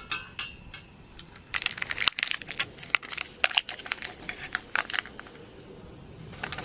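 Small hard items clinking and rattling in quick succession, densest from about a second and a half to five seconds in.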